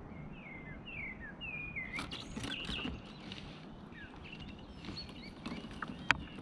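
A bird singing a run of short whistled notes that slide downward, over faint clicks and rattles of fishing tackle being handled, with one sharp click near the end.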